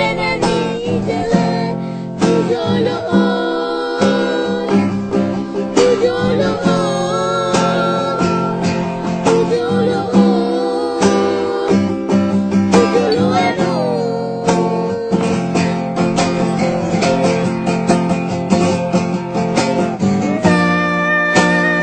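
Acoustic guitar music, plucked and strummed, playing a melody with chords.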